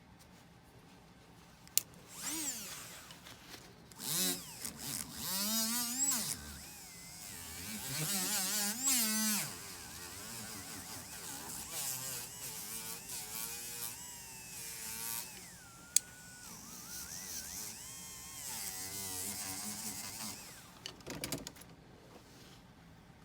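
A jeweller's small electric rotary tool running in spells, its whine rising and falling in pitch as its speed and load change. Two sharp clicks, one near the start and one about two-thirds through.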